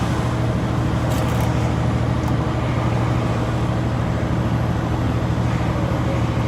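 Steady engine drone and road noise inside a truck cab while driving down the road.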